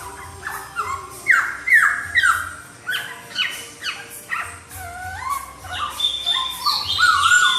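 Poksay (laughingthrush) singing loud, whistled notes that mostly slide downward, repeated about twice a second, with some rising and higher-pitched notes toward the end.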